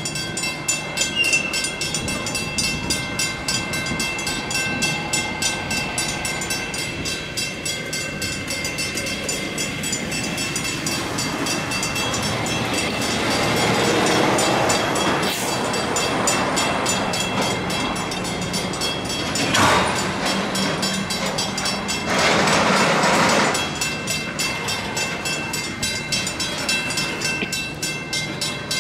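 Freight train of tank cars rolling through a grade crossing, its wheels clacking on the rails, while the crossing's mechanical bell rings rapidly and steadily. A few louder rushing noises rise over it around the middle, the longest lasting about a second and a half roughly two-thirds of the way in.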